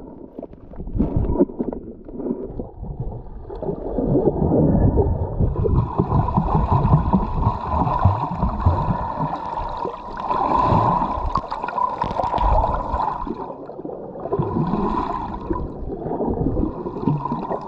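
Underwater sound of scuba diving: bubbles gurgling from the diver's regulator in long rushes, over a steady low rumble from water moving against the GoPro housing.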